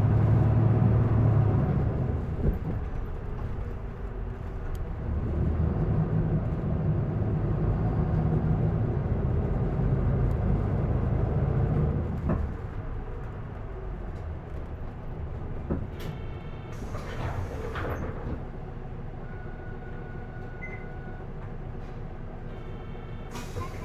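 Interior sound of an Isuzu Erga PDG-LV234L2 city bus: its diesel engine pulls hard twice, then drops to a quieter idle about halfway through as the bus slows. About two-thirds of the way in there is a brief hiss of air, and a steady beep sounds for about two seconds shortly after.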